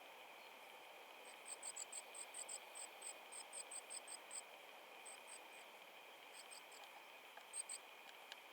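Faint, very high, thin chirps from a small bird, repeated quickly at about six a second in a run, then in shorter bursts of two or three. A faint steady high hum lies beneath.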